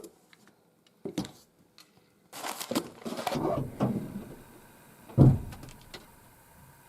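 Objects being handled and set down: a couple of sharp clicks, a stretch of clattering, then one loud thump about five seconds in.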